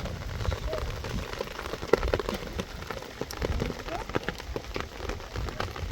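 Heavy rain falling, with many scattered sharp drips and taps of drops on surfaces over a low rumble.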